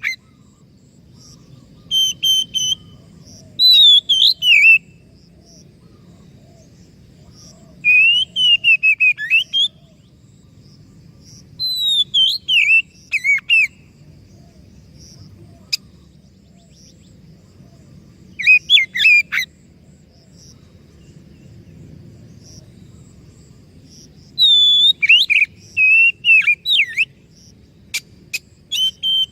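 Oriental magpie-robin (kacer) singing: short bursts of whistled and scratchy notes, about seven phrases with pauses of a few seconds between them, over a faint low background hiss.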